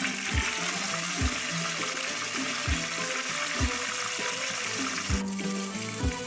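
Whole pomfret frying in hot oil in a wok: a dense, steady sizzle. About five seconds in, the sizzle changes abruptly as julienned ginger frying in a little oil takes over. Background music with a low, regular beat plays underneath.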